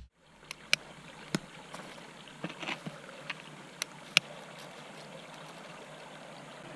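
Wood fire crackling: scattered sharp pops and snaps over a steady hiss, dying away after about four seconds.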